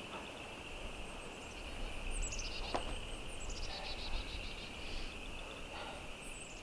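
A songbird calling outdoors in quick runs of notes that fall in pitch, over a steady high-pitched hiss, with one sharp click a little under three seconds in.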